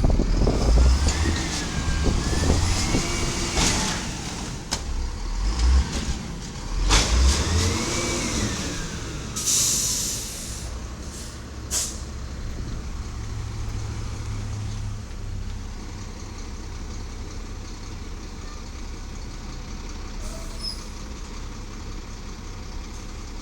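Diesel garbage truck, a 1999 Volvo automated side loader, revving up and down with a few sharp clunks. About ten seconds in comes a hiss of air brakes, a shorter hiss follows, and then the engine settles to a quieter steady running.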